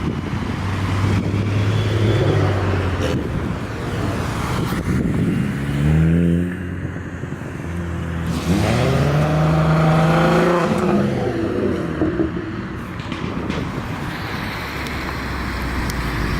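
Volkswagen Golf GTI and Golf R cars accelerating past one after another, engines revving. The engine pitch climbs hard about a third of the way in and again a little past halfway, then drops away as the car passes.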